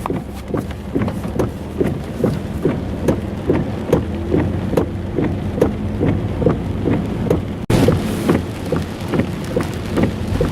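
Heavy thunderstorm rain, with a rapid, irregular run of drops splashing close by over a steady low rumble. The sound cuts out for an instant about three-quarters of the way through.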